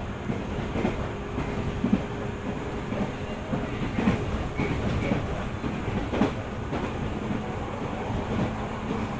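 Running sound of a 205 series electric multiple unit heard from inside the car: a steady rumble of wheels on rail with a low steady hum and irregular clicks as the wheels pass over rail joints.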